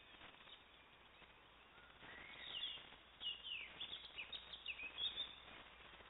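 A songbird singing a quick run of chirps and short falling whistles, starting about two seconds in and stopping about five seconds in, over a faint steady hiss.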